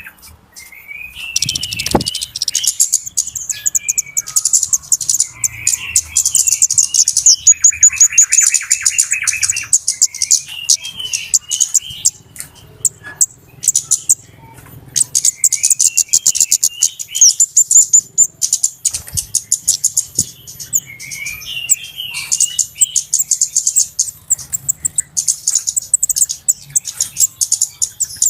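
Flowerpeckers (kemade) calling excitedly: bursts of very rapid, high, sharp ticking trills, broken by short twittering chirps lower down, repeated over and over.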